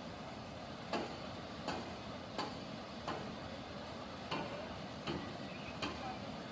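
A vehicle's turn-signal indicator ticking evenly, about one click every three-quarters of a second, over a steady hiss.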